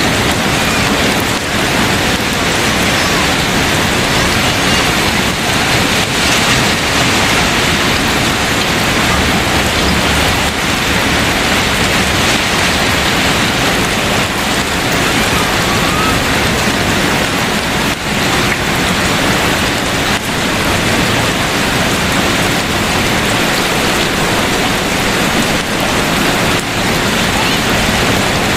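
Steady rain falling, an even hiss with no breaks or single loud events.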